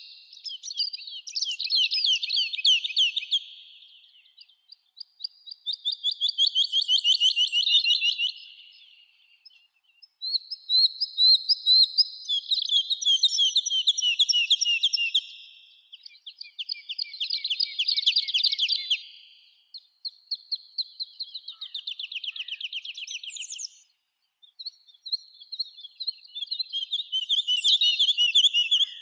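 A songbird singing a series of fast trilled phrases, each lasting about three to five seconds, with short pauses between them. There are about six phrases.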